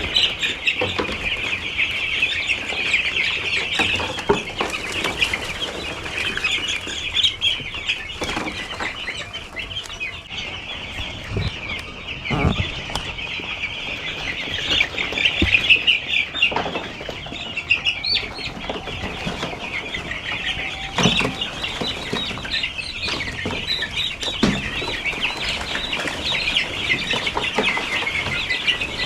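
Dense, continuous high peeping of a crowd of six-day-old broiler chicks packed tightly together, with a few dull knocks here and there.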